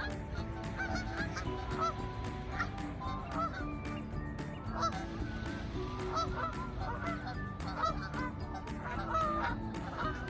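Many birds calling at once, short calls overlapping one another without pause, over a steady low rumble.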